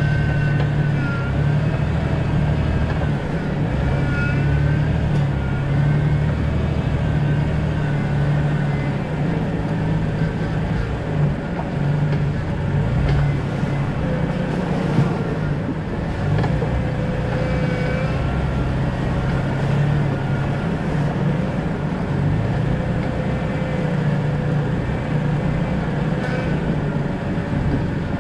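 A 2000 Jeep Cherokee XJ driving at a steady pace: continuous engine and road rumble, with a faint wavering higher tone riding above it.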